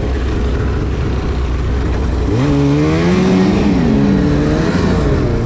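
Arctic Cat CFR 1000 snowmobile's two-stroke twin engine running at low speed, then revving up about two seconds in, its pitch rising and falling as the rider works the throttle before holding steady at a higher pitch.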